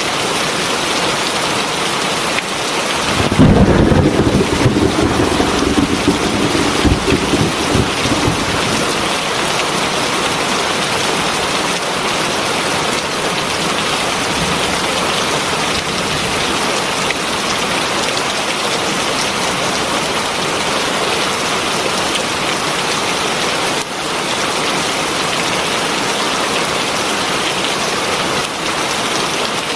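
Heavy rain falling steadily; about three seconds in a roll of thunder breaks in, rumbling for about five seconds before it dies away under the rain.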